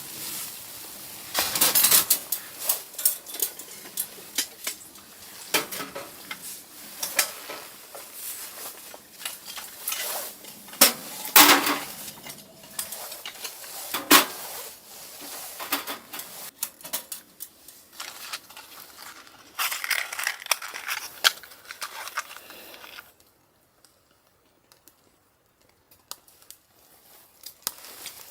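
Camp cookware and utensils handled at close range, with irregular clinks, knocks and rustles. Near the end there are a few seconds of near silence, then faint clinks again.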